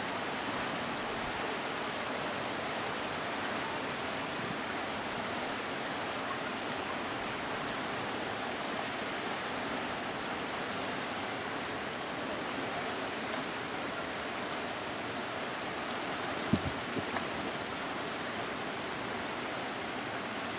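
Swift mountain river current rushing steadily, with a few short knocks about three-quarters of the way through.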